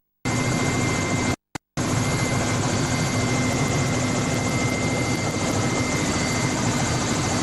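Helicopter engines and rotor running steadily, heard from inside the cabin as an even roar with a constant high whine. The sound cuts out completely twice near the start.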